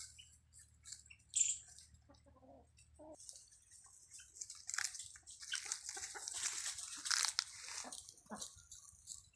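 Chickens pecking and scratching at feed and litter: a busy run of dry crunching and tapping, thickest in the second half, with a few faint clucks.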